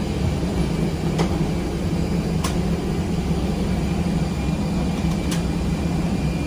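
Steady air-conditioning hum in the cabin of a parked Airbus A321neo, with three sharp clicks spread through it.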